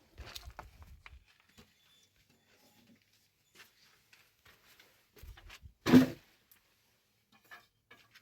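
Scattered faint handling noises and one sharp, loud knock about six seconds in.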